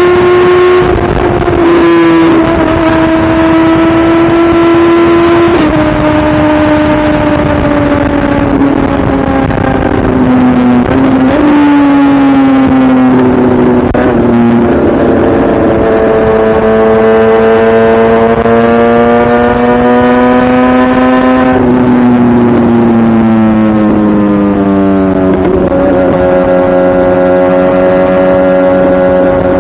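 2017 BMW S1000RR's inline-four engine under way, rising and falling in pitch with several sudden pitch steps as the gears change, then holding a steady pitch near the end.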